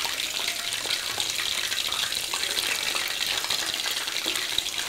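Battered chicken wings frying in hot oil in a wok: a steady, dense sizzle and crackle.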